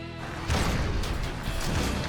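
Cartoon action soundtrack: a held musical chord dies away, then about half a second in a sudden loud crash-like impact effect sets off a dense run of battle sound effects over the music.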